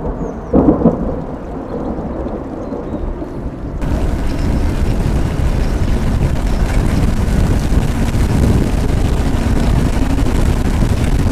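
Wind buffeting and rain noise on the microphone of an electric motorbike riding in the rain: a steady rumble and hiss with a couple of loud bumps just under a second in. It grows louder and brighter about four seconds in.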